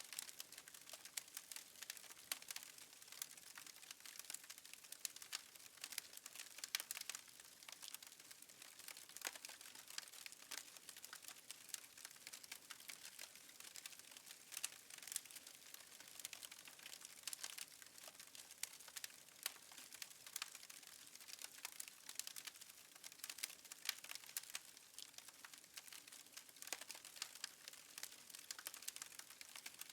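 Wood fire crackling in a fireplace: faint, irregular pops and snaps over a soft hiss.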